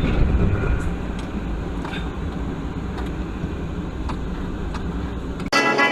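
Steady low rumble of a moving car, road and engine noise with a few faint ticks; it cuts off suddenly near the end and music starts.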